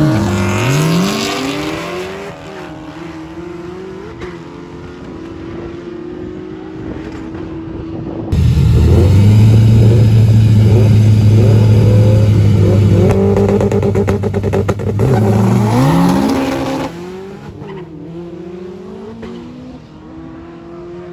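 Supercharged LS3 V8 of a 2004 Pontiac GTO at the drag-race start line, revving and settling, then after a sudden jump in loudness held at a steady high rev for several seconds, rising again just before it cuts off abruptly. Near the end, drag cars are heard farther off, accelerating away with the pitch climbing and dropping at each gear shift.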